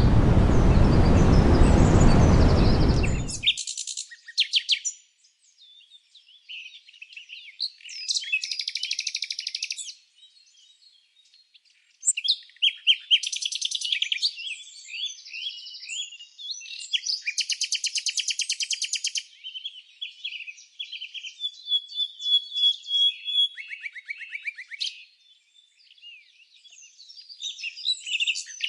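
Songbirds singing: a series of varied rapid, high trills and chirps with short pauses between them. For about the first three seconds a loud, even rushing noise covers everything, then cuts off abruptly.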